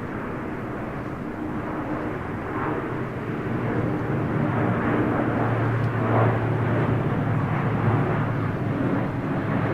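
An Airbus A400M Atlas's four turboprop engines as the aircraft flies past: a steady low hum with several held tones, growing louder about halfway through.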